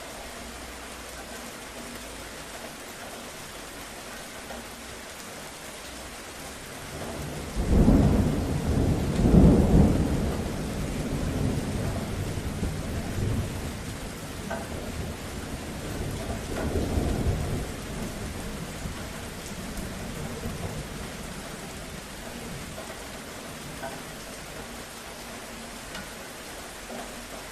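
Steady rain with a roll of thunder. The thunder breaks in suddenly about a third of the way in, rumbles low, swells again a few seconds later, and dies away well before the end.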